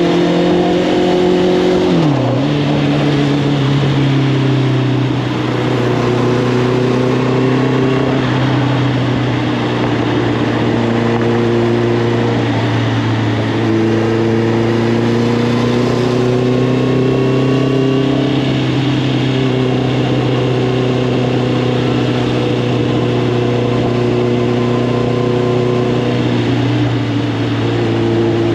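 Honda CB650R's inline-four engine through an Arrow Thunder full exhaust system, heard while riding. The engine note drops sharply about two seconds in as revs fall, then settles into a steady cruising hum that slowly rises in pitch, with small steps every few seconds, over steady wind and road noise.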